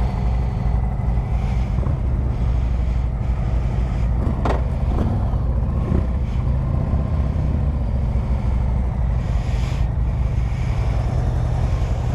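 Harley-Davidson Road Glide V-twin engine running steadily at a low, even speed.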